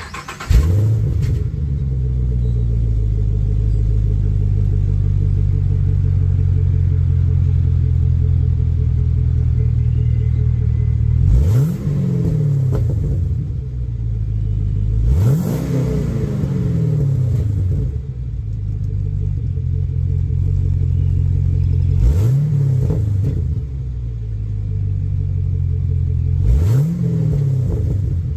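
Fifth-generation Camaro SS's 6.2-litre V8, through an X-pipe and NXT axle-back exhaust on an otherwise stock engine with no cam, catching at the start and settling into a steady idle with a deep exhaust rumble. It is blipped four times, each rev rising and falling back quickly to idle.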